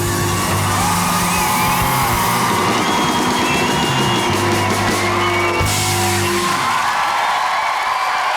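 Live band playing the held closing chords of a rock song while a studio audience cheers and whoops; the band stops about three-quarters of the way through and the cheering carries on.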